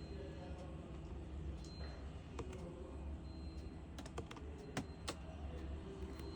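Scattered clicks of truck dashboard menu buttons being pressed to scroll and enter a password, with a cluster of quick presses about four to five seconds in, over a steady low hum.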